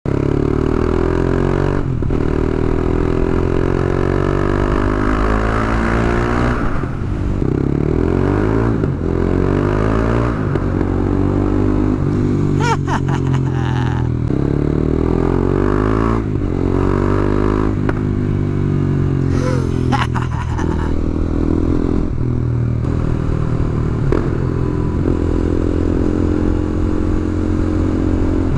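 KTM Duke 390 single-cylinder engine through an Akrapovic exhaust with its dB-killer removed, revving up and dropping back over and over. A few sharp clicks come about halfway and again later.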